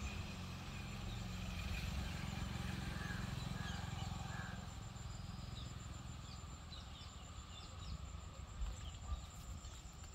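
Outdoor garden ambience: a low rumble, stronger in the first half, with scattered short bird chirps, most of them in the second half.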